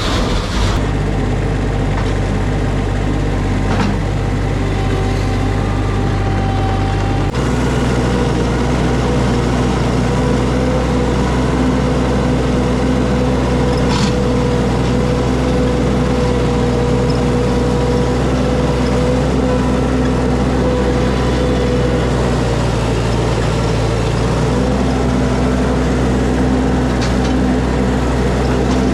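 A vehicle engine running steadily, its low hum changing slightly about seven seconds in.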